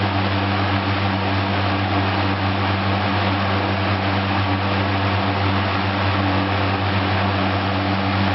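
Superlectric 1475T 12-inch metal-bladed box fan running steadily on its medium speed: a constant motor hum under the even rush of air from the blades.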